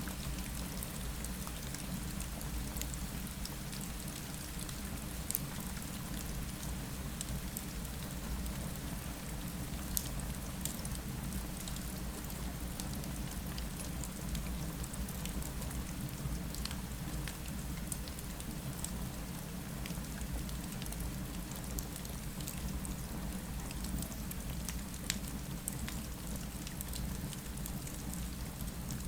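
Steady rain falling against a window, an even hiss over a constant low rumble, with scattered sharp ticks.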